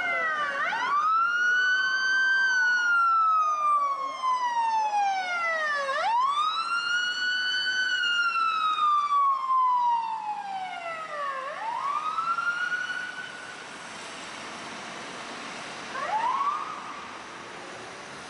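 Fire department emergency vehicle siren on wail, each cycle rising quickly and then falling slowly, three cycles about five seconds apart. A second siren overlaps faintly at first. The siren stops a little after two-thirds of the way through, and a single short rising chirp follows near the end.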